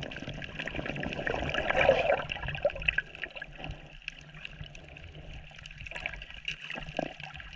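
Shallow seawater sloshing and splashing close to the microphone, louder over the first three seconds with a surge about two seconds in, then quieter with scattered small splashes and crackles.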